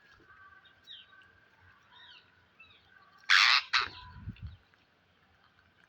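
Psittacula parrot giving faint chirps, then two loud, harsh screeches in quick succession about three and a half seconds in, followed by a short low thud.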